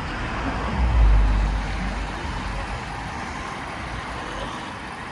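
Road vehicle noise in the street, with a low rumble swelling about a second in and fading a second later, like a vehicle passing close by.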